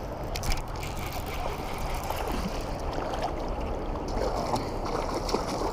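Moving river water splashing and gurgling around a kayak, with a few short clicks about half a second in.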